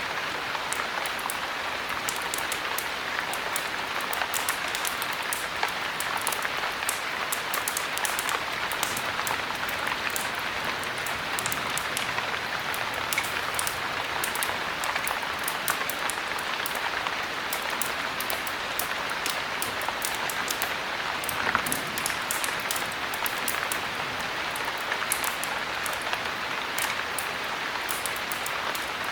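Steady heavy rain hissing, with many small sharp ticks and crackles scattered through it.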